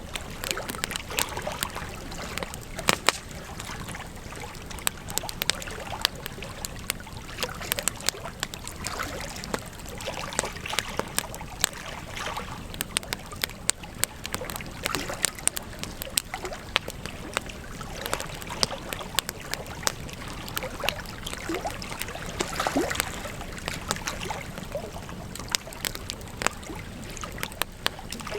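Wood campfire crackling, with frequent sharp irregular pops and snaps over a steady hiss.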